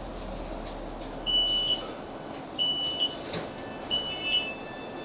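Class 458 train's door warning beeps: three short high beeps about a second and a quarter apart, each ending on a brief higher note. Under them the train's low running rumble dies away about a second and a half in as it comes to a stand at the platform.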